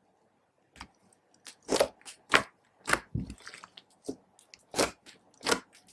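Slime being pressed and squished by hand, giving a run of sharp crackling pops from trapped air, irregularly spaced, after a quiet first second.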